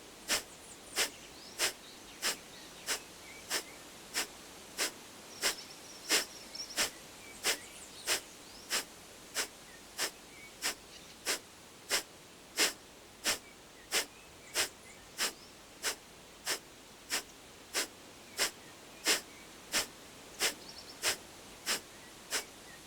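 Kapalabhati breathing: short, forceful exhalations puffed out through the nose at a steady pace of about three every two seconds, each inhale passive and unheard, about 35 pumps in all.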